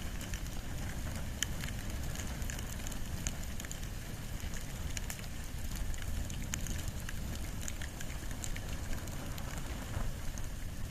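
Bonfire of wood and bamboo burning: a steady low rumble of flames with scattered sharp crackles and pops.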